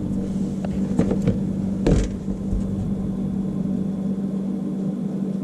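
A steady low hum, with a few light clicks and knocks of small metal parts and tools being handled about one to two seconds in.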